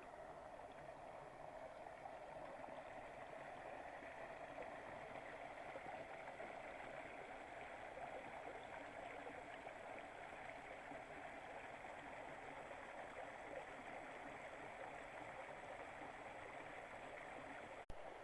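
Mountain river water rushing steadily over rocks, a faint even rush that cuts out for an instant near the end.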